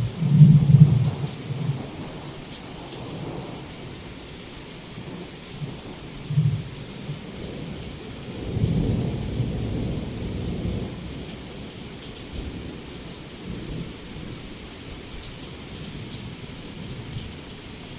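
Heavy rain falling steadily, with rolling thunder. A loud rumble at the start dies away over the first couple of seconds, a short one comes about six seconds in, and a longer roll follows around nine to eleven seconds.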